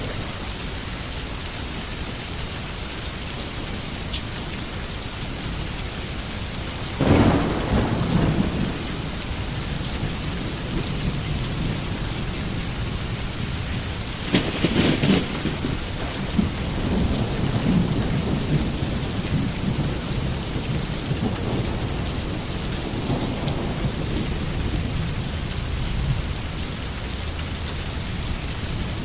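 Steady heavy rain falling, with a sharp thunderclap about seven seconds in and another about halfway through, followed by rolling thunder rumbling for several seconds.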